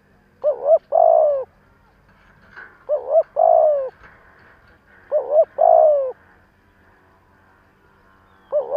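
Spotted dove cooing: a repeated phrase of two short notes followed by a longer note that falls at its end, about every two and a half seconds, four times.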